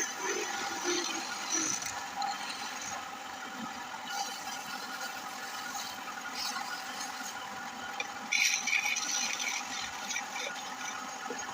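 Wood lathe running with a steady motor whine while a turning tool scrapes and cuts the spinning wood, the cutting getting louder for about a second two-thirds of the way through.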